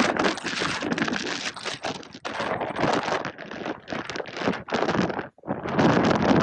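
Gusty wind buffeting the microphone over the rushing of cascading waterfall water, rising and falling unevenly, with a short break a little after five seconds in.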